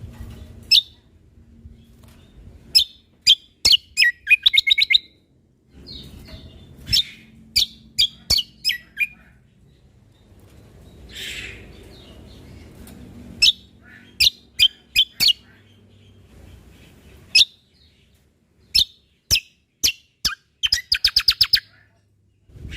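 Cucak kombo (kecial kombok) songbird calling: loud, sharp high chips in quick groups, broken by short pauses. A rapid trill comes a few seconds in and again near the end. A faint low rumble runs underneath.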